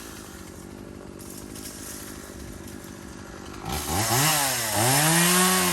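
Gas chainsaw idling, then revved up hard about two-thirds of the way in, dropping back briefly and revving high again.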